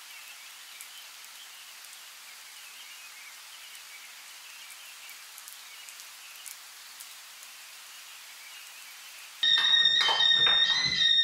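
Steady hiss of light rain with faint scattered drop ticks. Near the end, loud music cuts in suddenly, with held high tones and sharp percussive hits.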